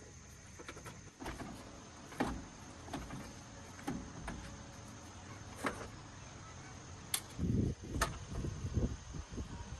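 Scattered clinks and knocks of tools and metal parts being handled, roughly one a second, with a louder run of dull thuds near the end, over a faint steady high whine.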